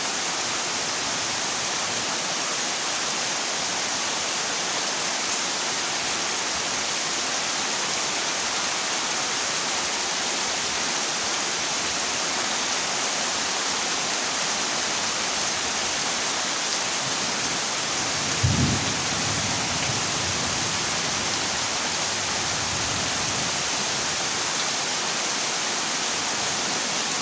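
Heavy rain falling on a corrugated zinc roof: a steady, even hiss. About two-thirds of the way through, a clap of thunder breaks low and rumbles on for a few seconds.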